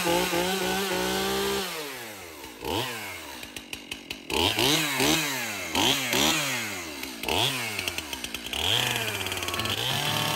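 Chainsaw engine running at high speed, dropping back about two seconds in, then revved up and down about five times before holding steady near the end, as it is used to cut through a thick 6-by-12 timber header that a circular saw could not get through.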